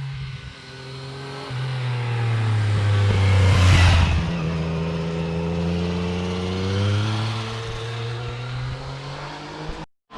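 Yamaha MT-09 Tracer GT's three-cylinder engine and exhaust revving and accelerating, its pitch rising and falling several times. It is loudest a little under four seconds in. The sound cuts out for a moment near the end.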